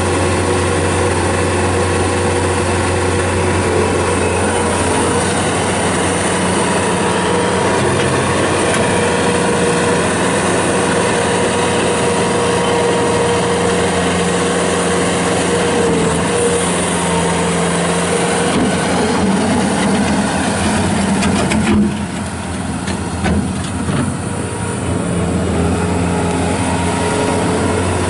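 2007 Bobcat S185 skid steer loader's diesel engine running steadily. Its pitch shifts somewhat past the middle, and near the end there is a short dip in loudness with a few clicks before it settles again.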